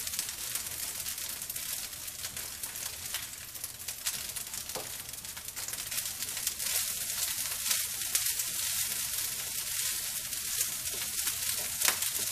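Fried rice sizzling in a hot frying pan with a pat of melting butter, crackling steadily as it is stirred and turned with a silicone spatula, with a couple of sharper ticks from the spatula against the pan.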